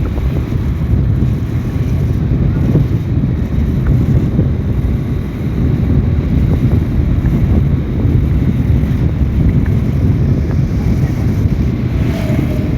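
Strong wind buffeting the microphone: a loud, steady, low rush with no clear breaks.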